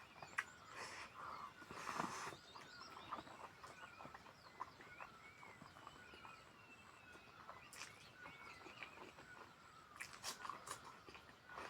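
Faint close-up eating sounds: chewing, lip smacks and wet mouth clicks, scattered irregularly, with a louder smack or crunch about two seconds in.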